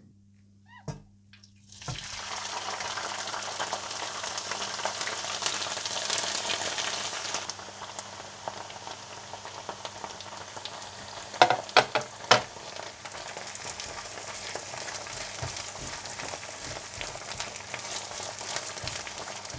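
Crushed caralluma fimbriata (charangli) hitting hot oil in a nonstick wok and frying with a dense sizzle that starts about two seconds in and settles a little lower after about seven seconds, while being stirred with a spatula. A quick run of three or four sharp knocks comes about halfway through.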